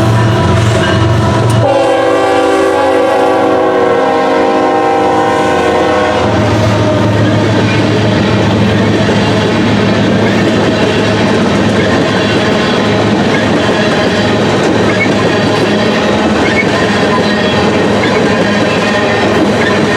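A diesel locomotive's multi-note air horn sounds, breaking off briefly just after the start and then holding one long blast that stops about six seconds in. After that the train rolls past close by with steady wheel-on-rail noise and clickety-clack.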